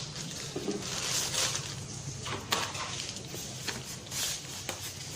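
Unboxed accessories and their packaging being handled: irregular rustling and clattering, with one sharp click about two and a half seconds in, over a low steady hum.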